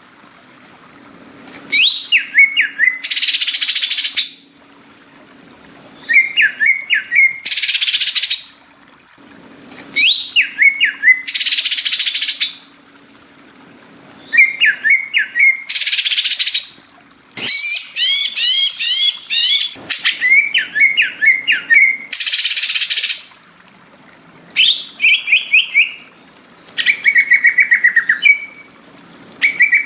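Cucak ijo (green leafbird) singing in loud repeated phrases: a few quick chirping notes, then about a second of harsh rasping noise, roughly every four seconds, with a run of quick rising whistles about halfway through.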